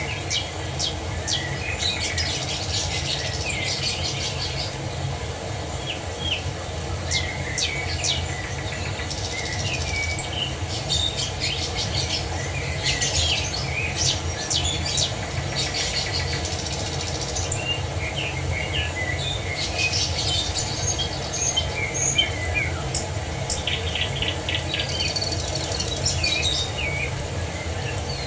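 Several songbirds chirping and trilling in short, overlapping phrases over a steady low rush of falling water.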